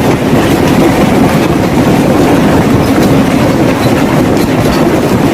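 Loud, continuous rumbling roar with a crackling edge, as of a violent natural event such as rushing water or a landslide.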